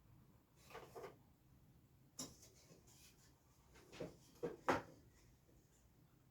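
Pieces of 2x4 lumber being handled and set down: a short scrape about a second in, a sharp knock a little after two seconds, then a few wood-on-wood knocks near the end, the last the loudest.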